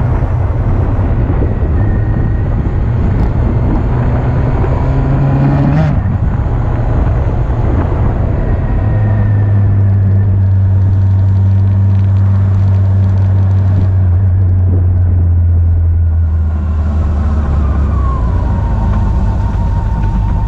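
2007 Honda CB400SF's inline-four engine running as the bike is ridden. Its pitch climbs for about the first six seconds and then breaks off. From about nine seconds it holds a steady low note, easing off near the end.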